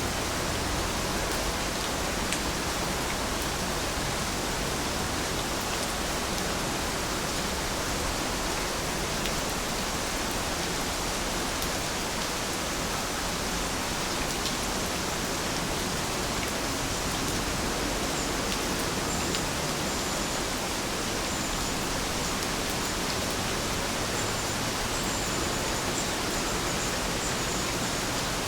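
Steady rainfall, an even hiss with scattered drop ticks. In the second half there are a few faint, short, high-pitched chirps.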